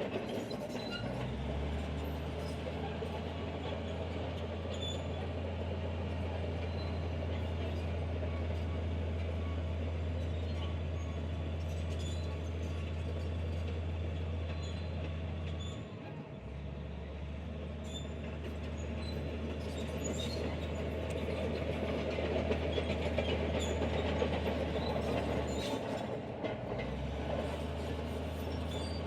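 Heavy diesel earthmoving machinery running steadily at work moving sand, a low drone with clattering over it; the low drone dips briefly about halfway through and again near the end.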